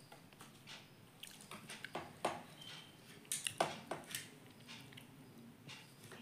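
Irregular clicks and taps from an Indian ringneck parrot pecking and scuffling about as it plays with a mirror, a few of them louder between about two and four seconds in.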